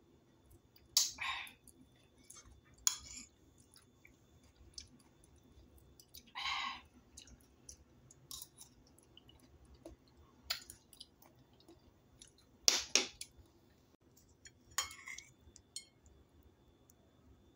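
A person eating tofu from a spoon: scattered soft chewing and wet mouth sounds, with a few sharp clicks between them.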